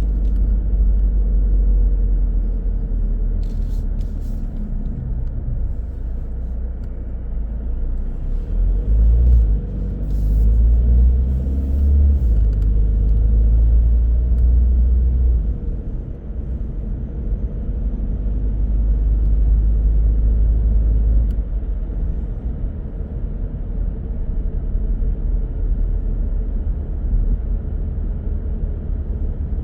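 A car driving on the road: a steady low rumble of engine and tyres. About nine seconds in it grows louder and the engine note rises for several seconds, then it eases back to a steady rumble near sixteen seconds.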